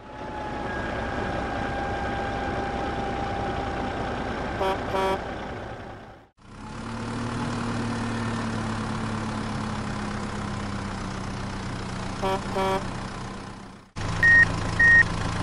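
Steady vehicle engine drone with a slight falling hum, broken twice by a short double horn toot. Near the end come high reversing beeps, about two a second.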